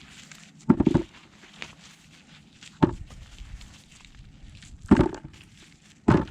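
Digging tool being driven into garden soil to lift potatoes: four heavy thuds, about two seconds apart.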